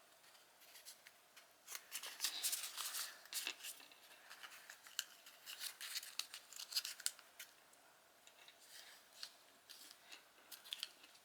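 Origami paper being folded and creased by hand: faint, irregular rustling and crinkling, busiest in the first half and sparser towards the end.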